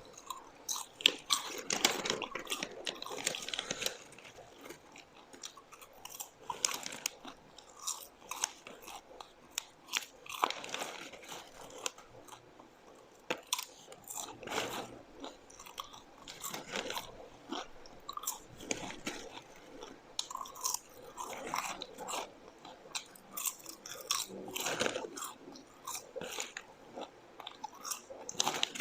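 Close-up chewing and crunching of popcorn, with irregular crisp crunches and bites throughout, busiest in the first few seconds.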